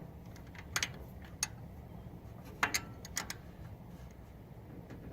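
A handful of sharp metallic clicks at irregular intervals, bunched together about three seconds in, from a wrench working the bolts of a Ford 9N tractor's distributor.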